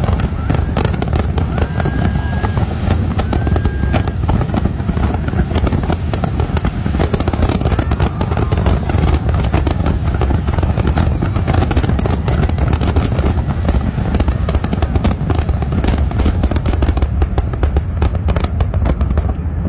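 Large aerial fireworks display: a rapid, continuous barrage of overlapping bangs over a steady deep rumble.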